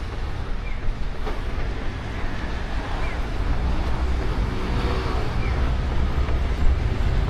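Outdoor street ambience heard on a moving action camera: a steady low rumble of wind on the microphone and traffic, with a faint short falling chirp every second or two.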